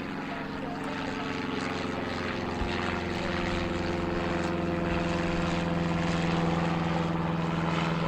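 Propeller aircraft engines running with a steady, even drone of several tones that grows slightly louder.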